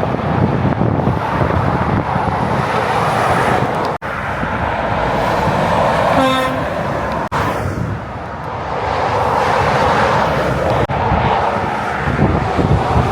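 Heavy motorway traffic running past, with a short horn toot about six seconds in.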